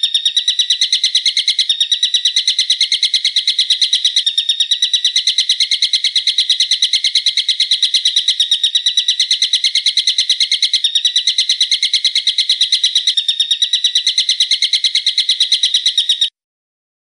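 A bird's fast, rattling call: high notes repeated evenly several times a second in one unbroken run, which cuts off suddenly near the end.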